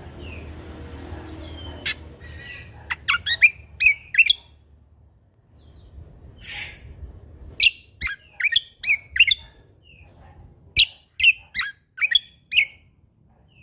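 Cucak kombo (kecial kombok) songbird singing: loud, sharp whistled notes that each fall quickly in pitch, in three quick clusters of four to six notes.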